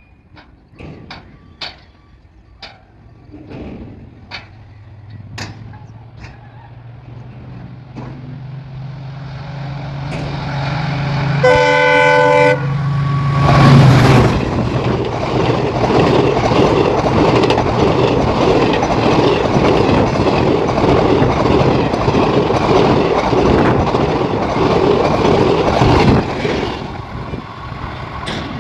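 Indian Railways Maharashtra Express approaching at speed, growing louder, and sounding its horn once for about a second. The locomotive and coaches then rush past with a loud rattling clatter of wheels on rail for about twelve seconds before fading away near the end.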